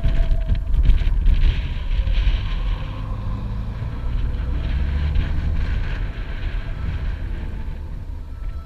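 Motorcycle riding along with wind buffeting the microphone: a low engine and road rumble that grows quieter toward the end.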